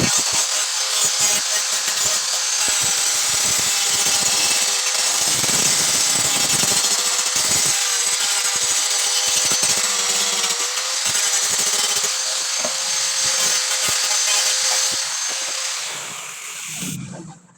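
Electric power tool running steadily on metal work, with a held whine and a hiss of cutting or grinding; it winds down and stops near the end.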